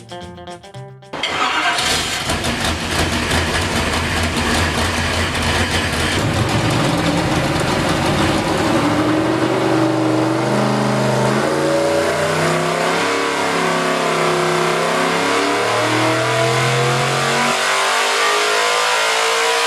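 A guitar song stops about a second in, and a loud IMCA SportMod race engine starts up at once. Through the middle and later part it is revved up and down again and again.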